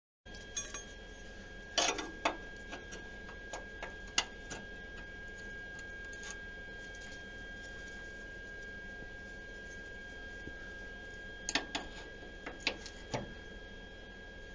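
Scattered light clicks and knocks, a few in quick clusters, over a steady faint high-pitched electrical whine.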